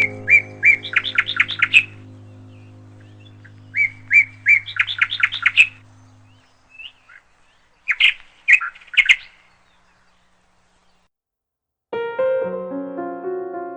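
A songbird singing the same short phrase three times, each a few clear notes running into a quick trill. Sustained music fades out under the first two phrases, and a piano tune starts near the end.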